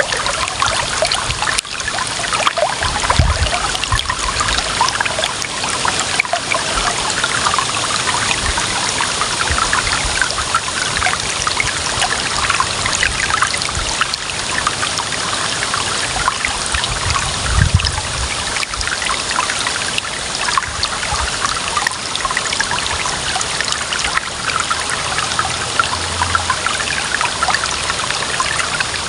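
Clear water running and trickling steadily, a dense babble of small splashes, with a couple of brief low thuds.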